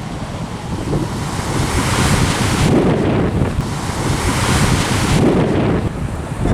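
Strong wind buffeting the microphone in gusts that swell and ease, over the wash of surf breaking on the beach.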